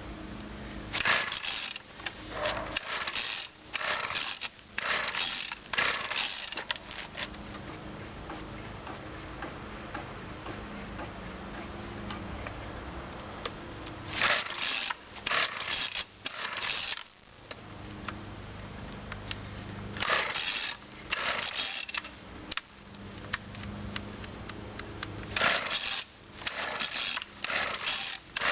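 Two-stroke weed whacker being pull-started over and over: about five rounds of quick recoil-rope pulls, the starter rattling, without the engine catching. The recoil starter is going bad.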